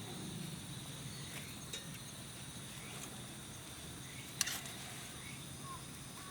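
Steady high-pitched chirring of insects, with a few short sharp clicks or snaps, the loudest about four seconds in.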